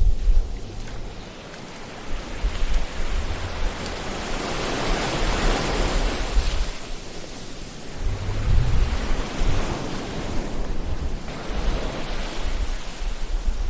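Ocean waves washing ashore: the surf noise builds to a breaking swell around the middle and then draws back, with low rumbles coming and going.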